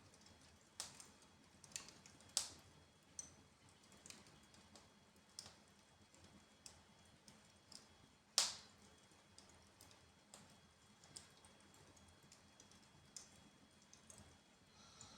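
Wood fire burning in a fireplace, crackling with irregular sharp pops, the loudest one a little past halfway.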